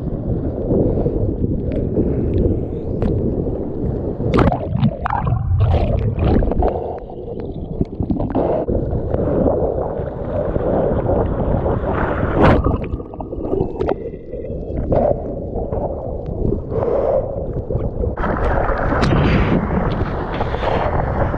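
Seawater rushing and splashing around a surfer's board-level camera in rough storm surf, with wind buffeting the microphone and frequent sharp splashes and knocks; it turns brighter and hissier in the last few seconds.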